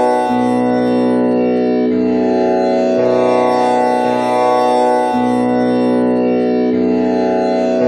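Tanpura drone in B, tuned with komal Ni (the flat seventh) in place of Pa: its strings plucked in a repeating cycle, a new string sounding every one to two seconds over a continuous buzzing ring of overtones.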